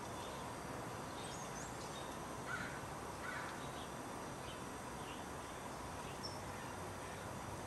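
Outdoor ambience with birds calling: scattered faint high chirps and two louder short calls about two and a half and three and a half seconds in, over a steady background hiss.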